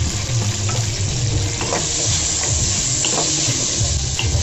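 Potato cubes frying in hot oil in a wok, a steady sizzling hiss. A wooden spatula starts stirring near the end.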